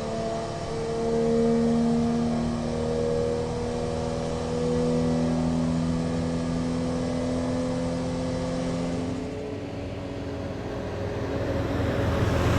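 RB26 inline-six engine in a Nissan Silvia S15 running at held, raised revs, its pitch stepping up and down a little; the engine note fades about ten seconds in and gives way to a rising rushing noise near the end.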